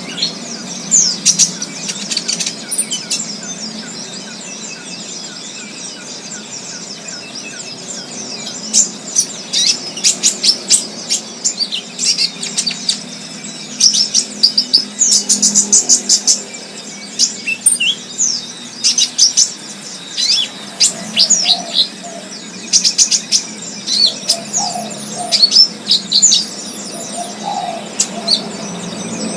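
Several wild birds chirping and singing in quick, high calls. There are only a few calls over the first several seconds, then dense flurries of chirps, all over a low steady hum.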